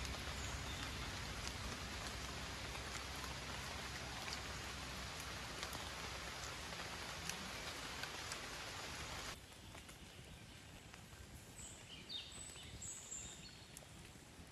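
Steady rain hissing with scattered drop ticks, cut off suddenly about nine seconds in. After that, a quieter outdoor background with a few short high chirps.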